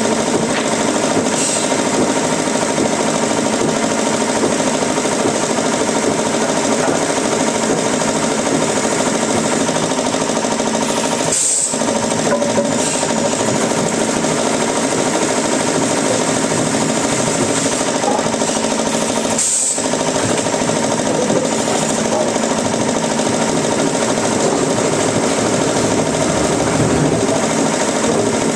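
Wood-processing machinery running steadily with a loud, dense mechanical clatter, cutting out for a moment twice, about a dozen and about twenty seconds in.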